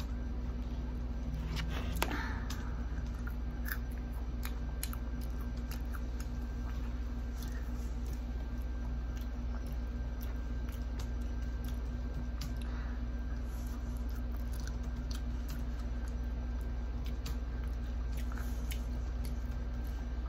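A child chewing crispy fried chicken, with scattered small crunches and clicks and a louder crackle about two seconds in, over a steady low hum.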